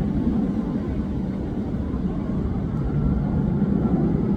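Airbus A380 airliner passing overhead on approach: a steady low jet rumble with a faint thin whine that rises slightly in pitch about midway.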